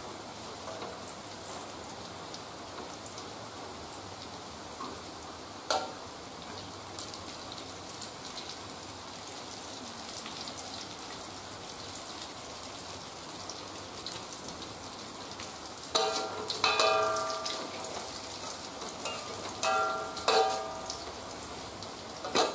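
Sliced onion, garlic and chillies sizzling in oil in an aluminium wok, a steady hiss. A metal spatula clicks once against the wok, then scrapes and clanks on it with a ringing sound in two short runs near the end.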